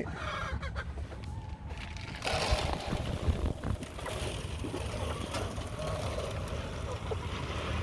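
Poultry feed being poured into feed troughs: a steady rushing pour starts about two seconds in and carries on, over a low rumble.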